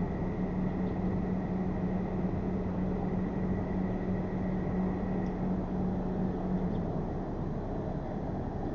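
Motorcycle riding at a steady speed, with a steady engine note over rushing wind and road noise. The engine note drops away about seven seconds in.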